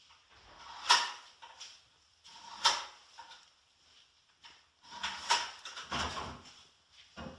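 A series of sharp knocks with scraping in between: single knocks at intervals of about two seconds, then a busier run of knocking and scraping near the end.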